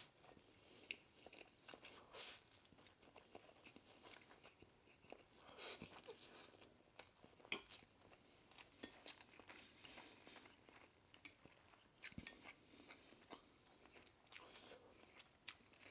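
Quiet, close-miked chewing and mouth sounds of a person eating, with irregular short clicks and bites.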